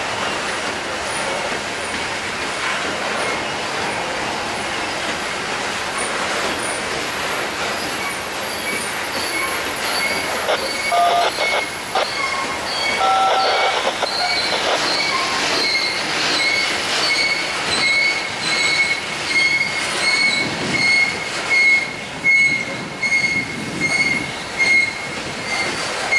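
Freight train of open-top coal cars rolling past, steel wheels grinding on the rails. A steady high-pitched wheel squeal sets in about a third of the way through, and in the second half the wheels clack over rail joints in a regular beat about once a second.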